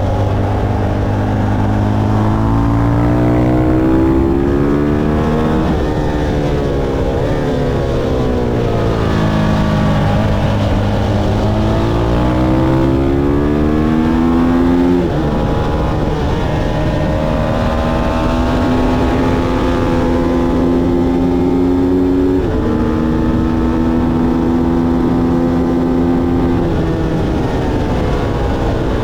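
Motorcycle engine running hard on a race track: its pitch climbs twice under acceleration, drops suddenly about halfway through at a gear change or roll-off, then holds fairly steady, over a constant rushing noise.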